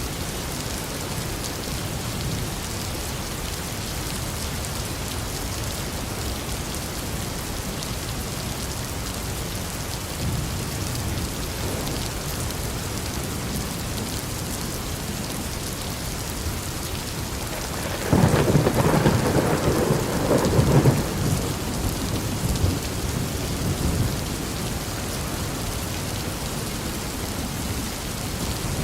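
Steady rain falling, with a thunderclap about two-thirds of the way through that is loud for a few seconds and then rumbles away.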